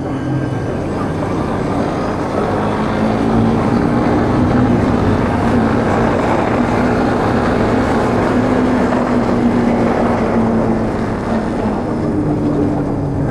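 Motorbike engine running at road speed under heavy wind rush over the microphone, its note wavering as the throttle changes.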